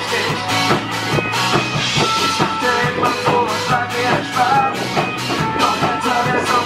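Live rock band playing, with a steady drum beat and guitar; the band sings in German.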